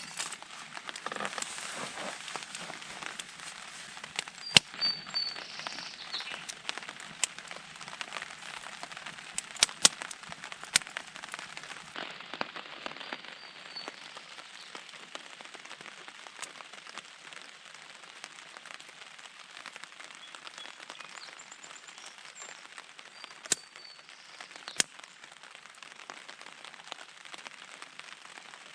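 Campfire crackling over a steady patter of rain, with a handful of sharp loud pops from the burning wood.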